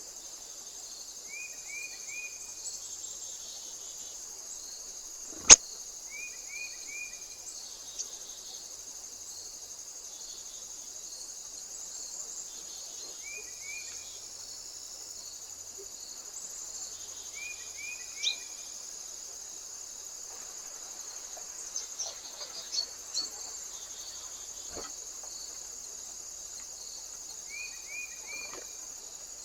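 Steady high-pitched chorus of crickets, with a short three-note call repeating about five times and a few sharp taps; the loudest tap comes about five and a half seconds in.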